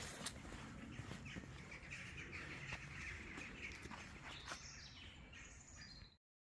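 A woodland bird calling a quick run of short, repeated chirps for a couple of seconds, faint, over a few crunching footsteps on leaf litter. All sound stops abruptly near the end.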